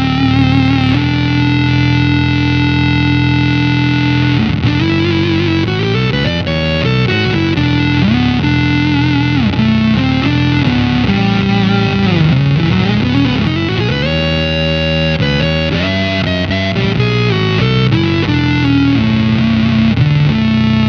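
Electric guitar played through an EarthQuaker Devices Data Corrupter PLL synth pedal: a fuzzy square-wave tone blended with a subharmonic voice set two octaves down a minor seventh. Held synth-like notes change pitch, with notes sliding up and down in the middle.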